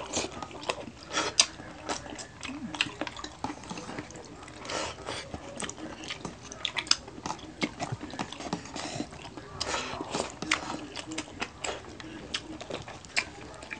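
Close-miked eating sounds: wet chewing and lip smacking from two people eating with their hands, with many irregular sharp clicks and crunches.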